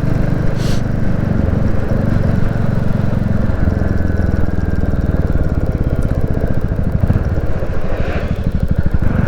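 Royal Enfield Classic 350's single-cylinder engine running steadily as the motorcycle is ridden.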